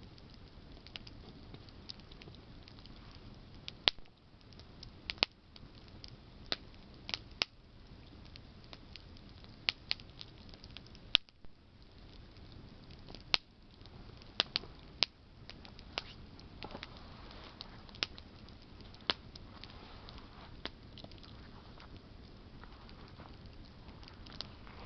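Wood campfire crackling: burning branches give sharp, irregular pops and snaps, a few much louder than the rest, over a low steady background noise.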